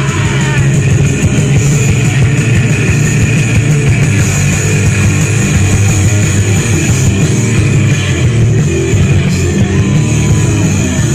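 Live rock band playing loud and steady, with distorted electric guitar and drum kit.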